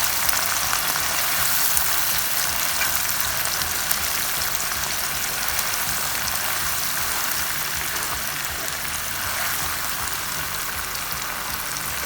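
Blended onion paste and spices frying in hot oil in a pan: a steady crackling sizzle with fine spits that slowly eases off.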